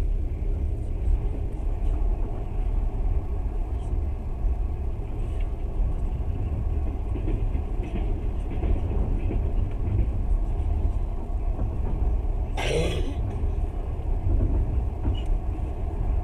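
Passenger train running, heard from inside the carriage: a steady low rumble of the wheels on the rails, with a brief noisy burst about three-quarters of the way through.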